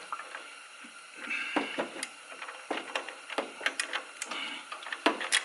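Ratchet wrench clicking in short runs with pauses as the two brake hose bracket bolts are tightened down.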